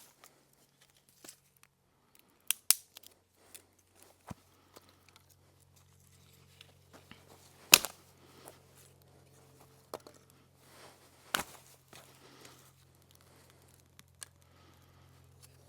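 Camping gear being handled and unpacked: scattered rustles with sharp clicks and snaps, the loudest about eight seconds in. A faint low hum runs underneath from about six seconds on.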